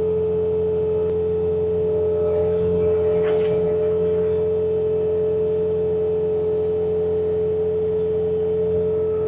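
Bobcat T66 diesel compact track loader running its snowblower attachment, a loud, steady high whine over a low engine drone.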